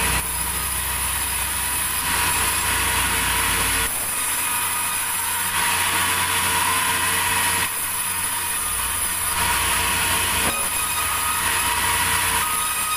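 Sawmill machinery running, a loud steady mechanical noise whose character shifts every couple of seconds.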